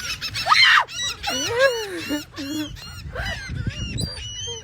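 A flock of gulls calling over and over: many short rising-and-falling cries overlapping one another as the birds crowd in to be fed by hand.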